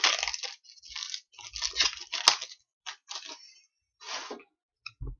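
A trading card pack wrapper being torn open and crumpled: a run of crinkly rustles and tears.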